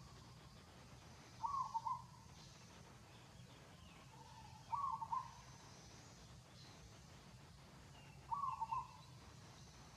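A bird calling three times, about three and a half seconds apart, each call a short quick cluster of notes of the same pitch. Underneath is a faint steady low hum.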